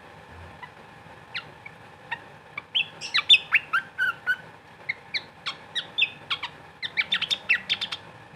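A flycatcher (sikatan), the bird called 'pantat goyang', calling in short, sharp, falling chirps. They come one at a time at first, then in quick runs from about three seconds in, and stop shortly before the end.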